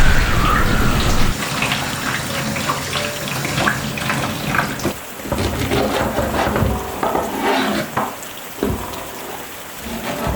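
Water running and splashing with many small clicks and knocks, after a low rumble that fades about a second and a half in.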